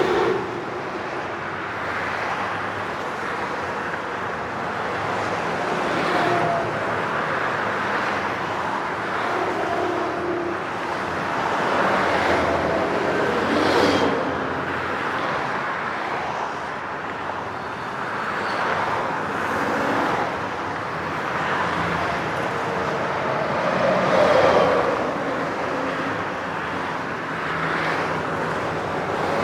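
Highway traffic: a steady wash of tyre and engine noise, with individual vehicles swelling past every few seconds, the loudest pass about 24 seconds in.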